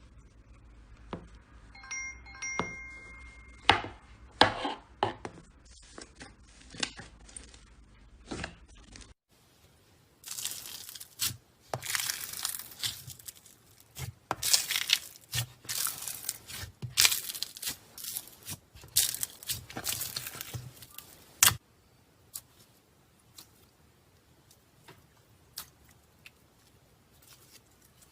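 Slime being squished and worked by hand, giving a run of sticky crackles and pops. The crackling is densest in the middle. A brief chime-like tone sounds about two seconds in.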